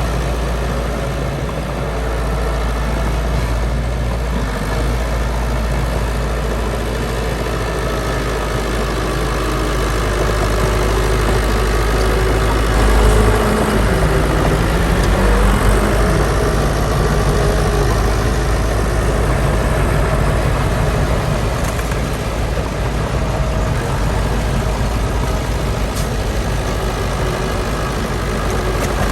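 Heavy diesel engines of earthmoving machines running steadily, with the engine note dipping and recovering briefly about halfway through.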